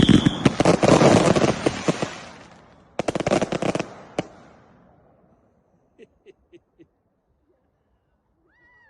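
Fireworks going off in a rapid volley of crackling bangs that fades over the first two seconds or so. A second short volley comes about three seconds in, then a lone crack, then a few faint pops.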